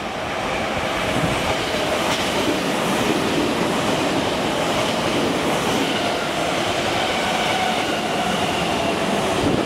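Tokyo Metro 10000 series electric train passing through the station at speed: steady wheel-on-rail running noise with a faint high whine, swelling about half a second in as the cars reach the platform.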